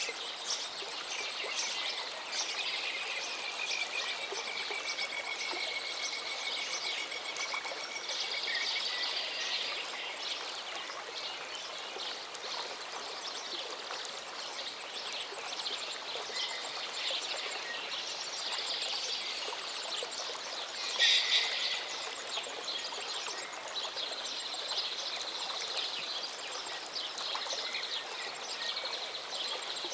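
Several songbirds singing and chirping over the steady rush of a small mountain stream, with one long trill early on and a louder call about two-thirds of the way through.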